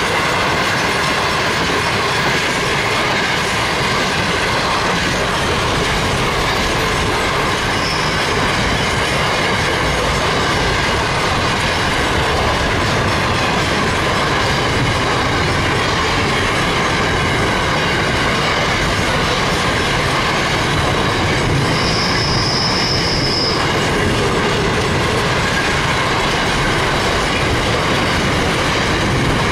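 Container freight train wagons rolling past close by, with a steady loud rumble and rattle of wheels on the rails. A brief high-pitched wheel squeal comes about three-quarters of the way through, and a fainter one about a quarter in.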